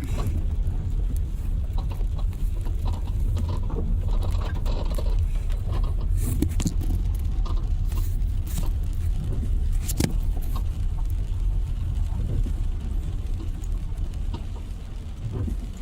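Steady low rumble inside a moving car's cabin, with a few sharp clicks or taps; the rumble fades away near the end.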